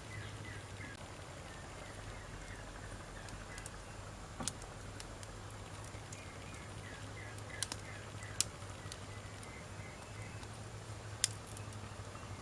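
Wood fire burning and crackling, with a handful of sharp, separate pops from the burning wood, the loudest about eight and eleven seconds in.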